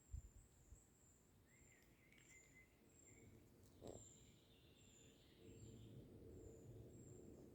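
Faint natural ambience of small animals chirping: a thin, high chirp repeating about twice a second, with a short run of lower chirping calls in the first half. A soft low bump comes at the very start.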